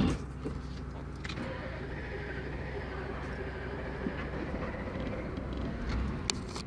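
Truck engine idling steadily, heard from inside the cab, with a few sharp clicks and knocks. The truck has been hard to start and keeps stalling.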